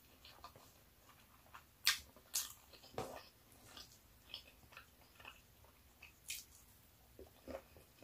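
Close-miked eating sounds of someone chewing a mouthful of oily pork adobo and rice: faint, irregular wet smacks and clicks, with a few sharper ones about two seconds in.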